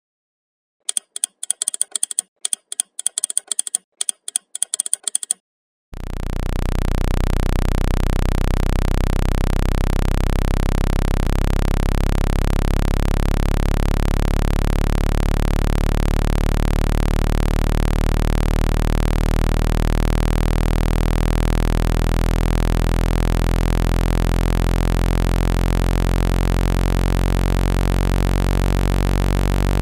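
Phone speaker-cleaning tone: a steady, low buzzing tone with many overtones that starts abruptly about six seconds in. It is meant to vibrate water droplets and dust out of a phone's speaker grille. Before it there are a few seconds of quick, irregular clicking.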